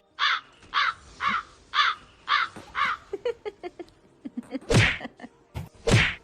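An animal calling six times in quick succession, about two calls a second. Then a few small clicks, and two loud sudden sounds near the end.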